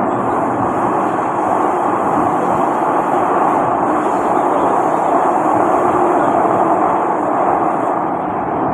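Kawasaki C151A metro train running steadily between stations, heard from inside the carriage: a loud, even rumble of wheels on rail and running gear.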